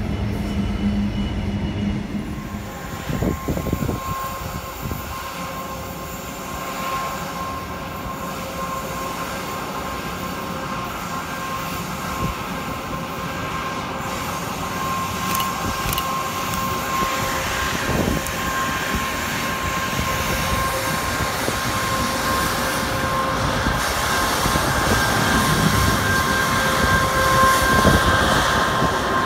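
A loaded coal train's wagons roll past on a curve with a continuous rumble, the wheels squealing in a steady high ring. It grows louder toward the end as the wagons come closer.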